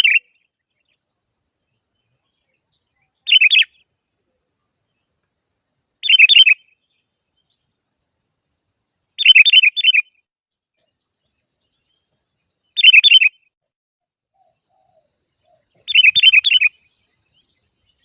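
Sooty-headed bulbul (kutilang) calling: short, bright, bubbling phrases of a few quick notes, repeated five times about every three seconds with silence in between. This is the bulbul's challenge call, used to lure rival birds.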